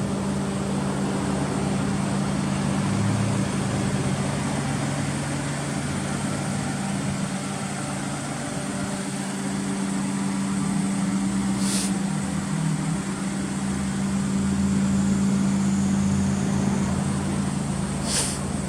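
Daihatsu Esse's three-cylinder engine idling steadily through an aftermarket HKS muffler. Two short hisses come about 12 and 18 seconds in.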